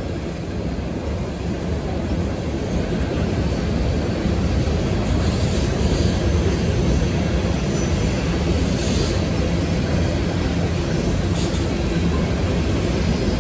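Loaded coal hopper cars rolling across a steel girder railway bridge: a steady low rumble of wheels on rail that grows a little louder over the first few seconds.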